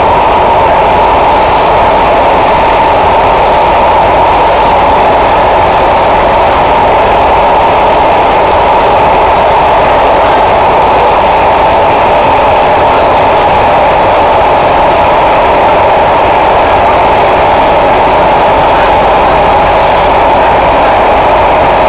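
Kawasaki–CSR Qingdao Sifang C151A metro train running at speed, heard from inside the car: a steady, loud running noise from wheels and motors with faint light ticks.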